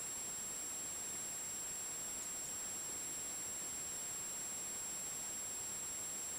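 Steady hiss with a constant high-pitched whine, and two faint short chirps a little over two seconds in: a pet rat's breathing chirps, a sign of a respiratory problem.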